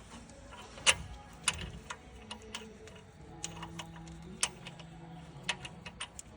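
Irregular sharp clicks and taps of hand tools and engine parts being handled during timing chain work, more than a dozen spread unevenly, the loudest a little under a second in.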